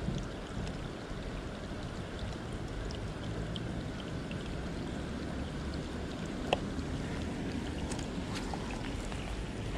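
Steady wash of rain and moving water, dotted with small ticks of raindrops, with one sharper click about six and a half seconds in.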